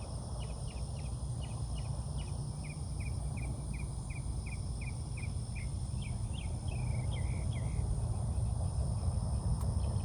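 A bird giving a long run of quick, falling chirps, about three or four a second, breaking into a jumble of notes about eight seconds in. Under it run a steady high insect drone and a low rumble.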